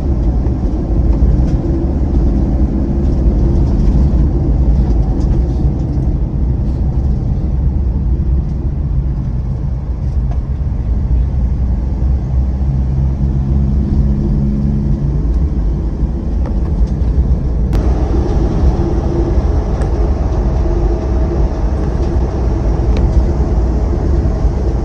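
Motorcycle riding on a road: the engine running under a heavy, steady rumble of wind on the microphone.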